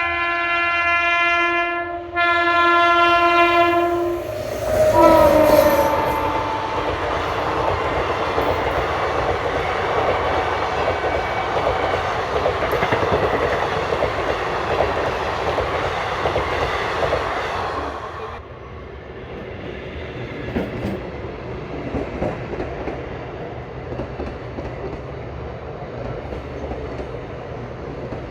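Indian Railways local train sounding its multi-note air horn in two long blasts, the pitch dropping as it reaches the crossing about five seconds in. The train then runs past with a loud rush and its wheels clacking over the rail joints, easing to a quieter rumble with scattered clicks from about eighteen seconds on.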